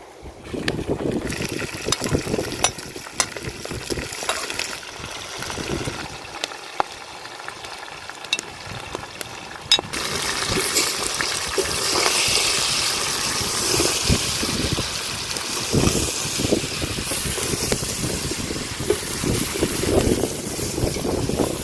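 Food cooking in a pot over a fire, sizzling and bubbling with scattered pops; it gets louder about ten seconds in.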